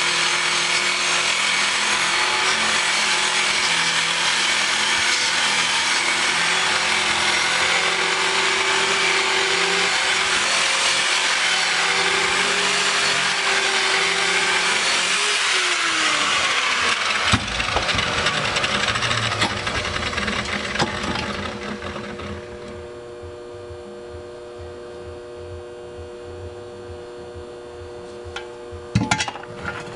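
A power tool polishing aluminum engine parts: a steady motor hum under a loud, gritty hiss. About halfway through the motor winds down in pitch, and a few seconds of scraping and rubbing fade away. What follows is a quieter steady hum with a few clicks near the end.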